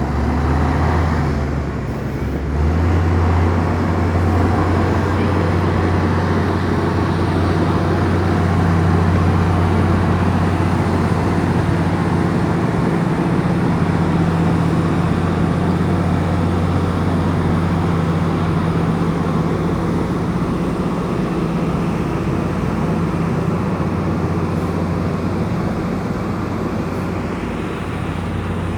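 Komatsu bulldozer's diesel engine running steadily under load, with a brief dip about two seconds in before the engine note steps up and holds.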